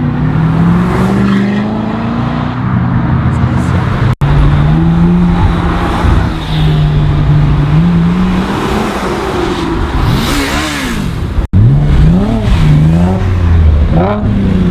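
Supercar engines running and being revved: a steady engine note first, then quick throttle blips whose pitch rises and falls again several times in the second half. The sound cuts out for an instant twice.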